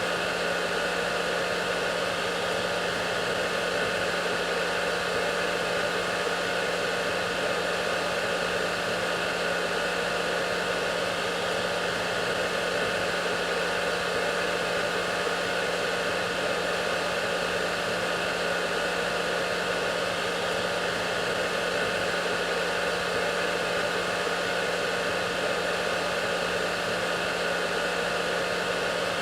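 Hair dryer running steadily: an even rush of blown air with a low hum and a few faint steady whining tones from its motor.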